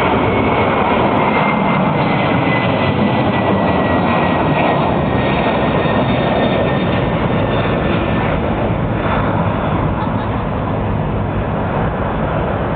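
Boeing 767-300's twin jet engines at takeoff thrust: a loud, steady roar with a thin whine that slowly falls in pitch, easing off slightly near the end.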